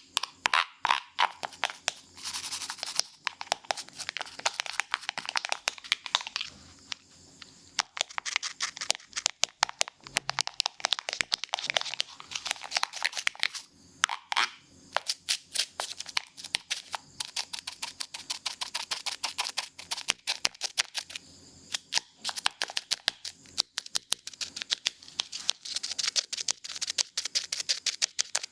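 Scissors snipping rapidly close to the microphone: many quick, crisp cuts in uneven runs.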